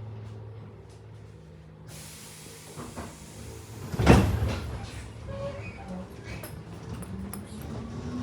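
Tobu 8000-series commuter train at departure: a hiss of air, then the sliding doors shut with a loud thud about four seconds in. Near the end the traction motors start a rising whine as the train begins to pull away.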